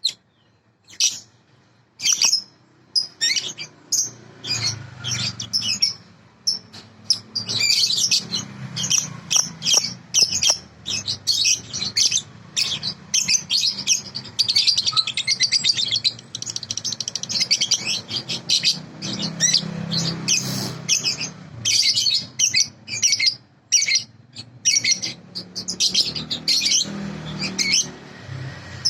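A juvenile bird (balibu) chirping continuously in rapid strings of short, high chirps, with only brief pauses: a 'masteran' song recording of the kind played to young lovebirds for them to learn from.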